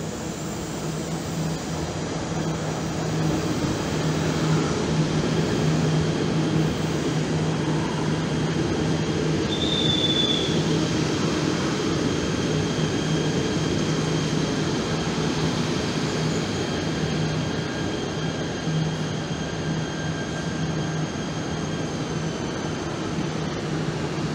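KTM ETS electric train pulling into an underground station platform and slowing to a stop: a steady rumble of wheels and running gear that swells over the first few seconds, with a thin high squeal running over it. A brief sharper squeak comes about ten seconds in, and the high squeal fades out near the end as the train comes to rest.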